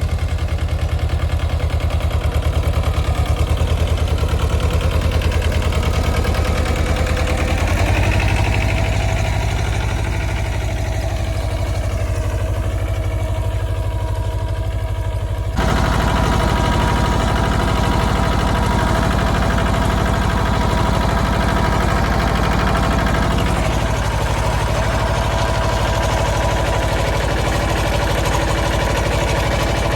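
Mahindra Jivo 305 DI tractor's diesel engine running steadily with a low, even thump. The engine sound changes abruptly about halfway through, then runs on at a steady pace.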